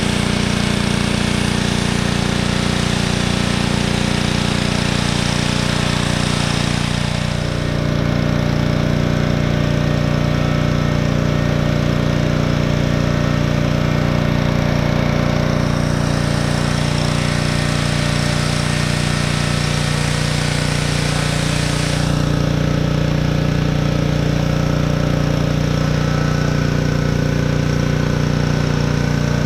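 Engine-driven pressure washer running steadily, with the hiss of the spray from the wand switching on and off: the spray stops about seven seconds in, starts again around sixteen seconds, and stops again a little after twenty-two seconds while the engine keeps running.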